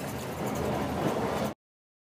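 Steady running noise of a moving train heard inside a sleeper carriage, cut off suddenly about one and a half seconds in.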